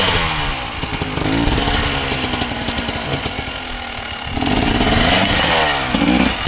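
Dirt bike engine revving up and down, easing off in the middle and revving louder again about four and a half seconds in.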